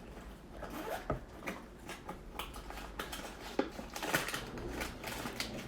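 Scattered light clicks and taps of small plastic makeup items being handled, including a lip gloss tube.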